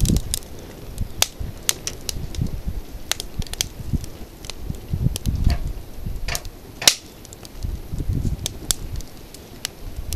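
Wood campfire crackling, with irregular sharp pops and one louder crack about seven seconds in, over a low rumble that comes and goes in gusts.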